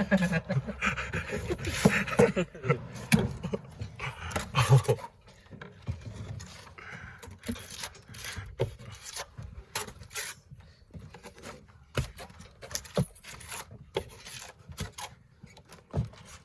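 Voices talking for the first few seconds, then scattered scraping and tapping of tools spreading synthetic base coat over an EIFS foam band.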